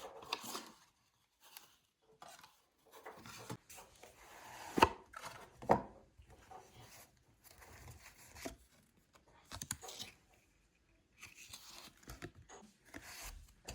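Irregular taps, knocks and scraping of objects being handled, with two sharper knocks about five and six seconds in.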